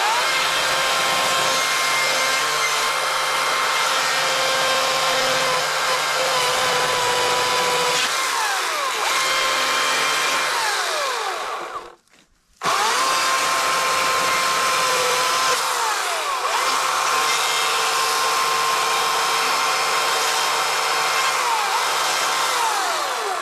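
EGO CS2005 20-inch battery-powered chainsaw running on its second speed setting, which is the most its 5 Ah battery allows. It runs in two long bursts, each opening with a rising whine, and stops briefly about halfway through. The motor pitch dips again and again as the chain bites into the wood.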